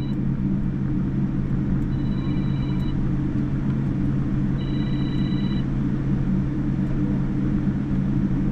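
Steady low rumble of cabin noise aboard a Boeing 787-9 airliner. A faint high steady tone sounds twice, about a second each, in the first six seconds.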